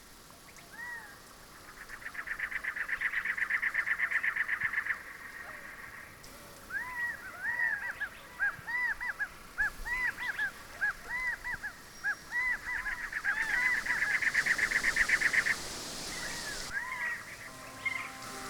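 A bird calling: two fast rattling runs of notes, with a string of short, arched, squawk-like calls between them.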